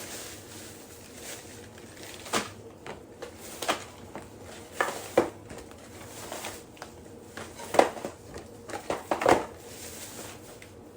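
Grocery items and their packaging being handled and set down on a hard surface. Scattered knocks and clatters come a few seconds apart, with a closer cluster of them near the end.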